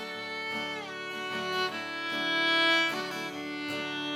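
Fiddle playing long held notes that change pitch a few times, over guitar strummed softly underneath: an instrumental passage between sung verses.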